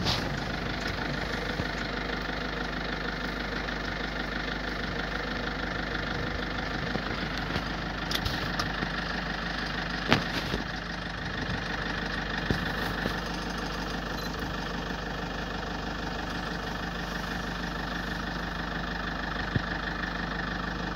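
Vehicle engine idling steadily, heard from inside the car, with a few short clicks or knocks, the sharpest about halfway through.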